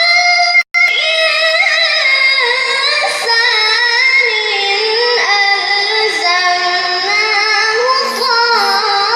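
A child's high voice reciting the Quran in melodic tilawah style: one long, unbroken, ornamented phrase whose pitch wavers and steps up and down. Under a second in, the sound cuts out completely for a split second.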